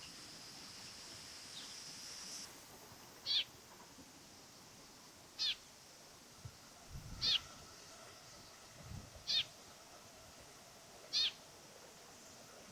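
A bird repeating a short, high call that falls in pitch, five times about two seconds apart. A steady high-pitched whine stops about two seconds in.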